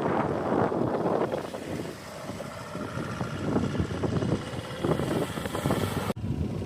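Cars running and moving, with wind buffeting the microphone.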